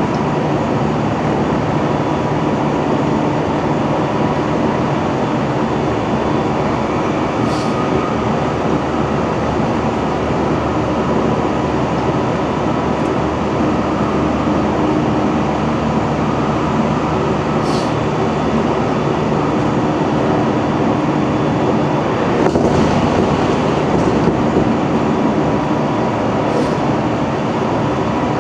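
Running noise of a JR Central 313 series electric train heard from its leading motor car, KuMoHa 313-3: a steady rumble of wheels on rail with a constant, unchanging motor and gear hum, broken by four brief sharp clicks.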